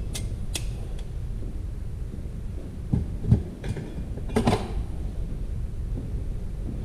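Transmission parts being handled on the bench: two light metallic clicks near the start, a pair of dull knocks about three seconds in and another clink a little later, over a steady low hum.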